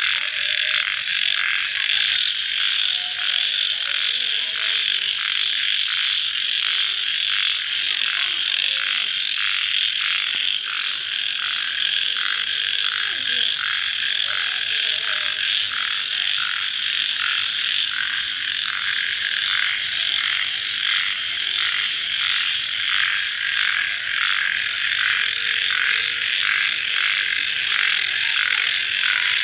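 Dense night chorus of crickets and frogs calling after rain: a steady high pulsing chorus, beating about twice a second, with fainter lower calls beneath.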